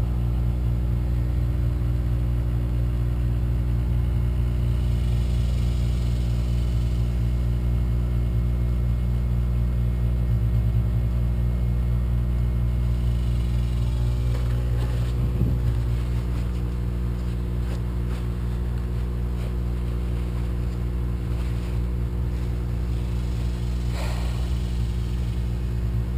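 A steady low mechanical hum, like a motor or engine running, with a faint knock about halfway through and a sharp click near the end.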